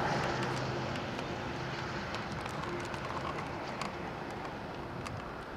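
Boeing 787-8's GE GEnx engines at taxi power: a steady low rumble with a faint hum, slowly fading.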